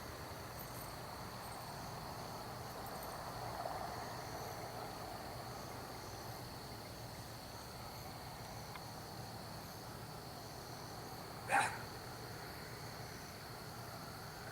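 Crickets trilling steadily in one continuous high tone. A single short, sharp sound stands out about three-quarters of the way through.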